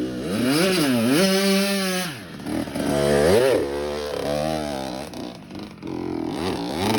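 Kawasaki 65 two-stroke dirt bike engine revving hard, its pitch climbing and dropping again and again under the throttle while the bike works up a steep hill climb.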